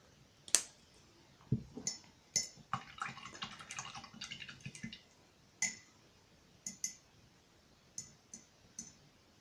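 Small clicks, taps and clinks of acrylic paint bottles and a brush being handled, with a run of quick ticks about three to five seconds in.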